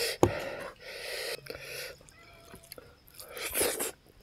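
Close-up wet chewing of a mouthful of fried pig's trotter and rice, in several short crackly stretches with pauses between, and two sharp clicks right at the start.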